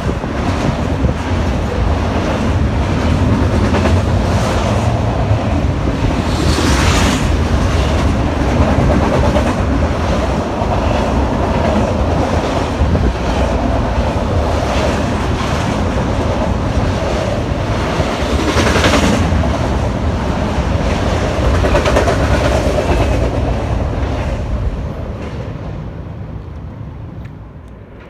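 Double-stack intermodal freight train rolling past, a steady loud rolling noise of steel wheels on rail that fades away near the end.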